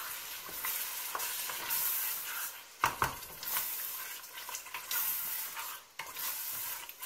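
Mashed mustard greens and beef sizzling in oil in a stainless-steel pot as a wooden spoon stirs them, frying the saag down with the spice paste. There are scattered light clicks of the spoon and one sharp knock about three seconds in.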